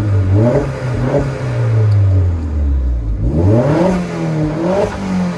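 Vauxhall Astra VXR's 2-litre turbocharged four-cylinder engine, fitted with an upgraded louder exhaust, revved twice: each time the pitch climbs quickly, holds briefly, then sinks slowly back down.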